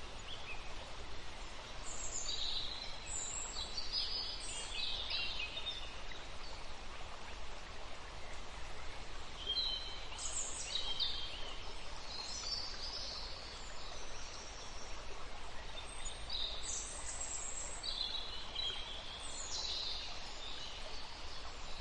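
Birds calling in three bouts of short, high-pitched chirps over a steady outdoor hiss.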